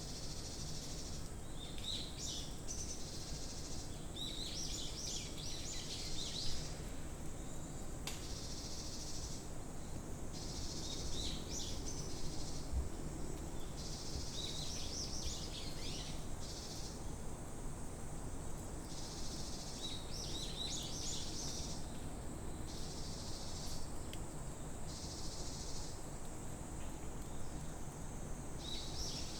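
Summer forest ambience: a steady high insect drone, with a second insect chorus switching on and off every second or two. Short bursts of bird chirping come about six times, over a low background rumble.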